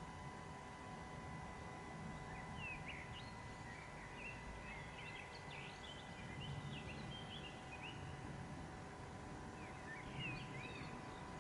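Small birds chirping in short quick calls, in two bouts, over a faint steady hum and low background rumble.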